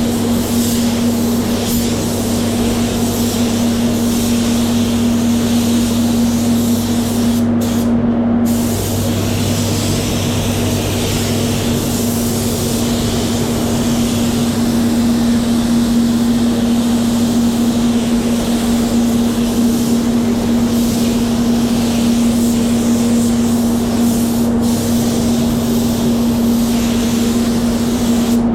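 Air spray gun hissing steadily as epoxy primer is sprayed, with a short break in the spray about eight seconds in, over a steady low hum.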